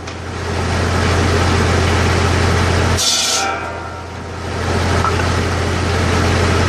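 McConnel Log Mate circular saw bench running with a steady hum. About three seconds in, the blade gives a high ringing whine that falls away within half a second, as it does on each cut.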